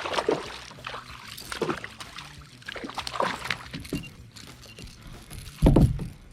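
Water splashing and sloshing in irregular surges, with one heavy low thump about five and a half seconds in.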